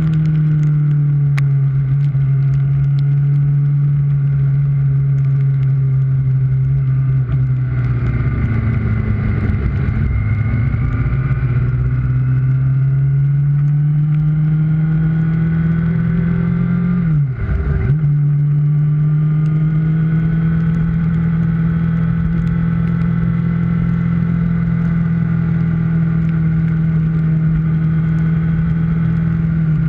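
Kawasaki ZX-6R inline-four engine running at a steady, held note under way, with road and wind rush. A little past the middle, the revs dip sharply for a moment and then come straight back.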